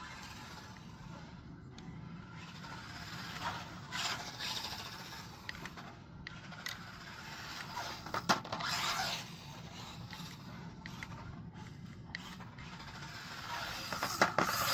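Maverick Microbe 1/24-scale RC short course truck driving, its tyres scraping across the ground, with a few sharp knocks as it bounces and rolls over.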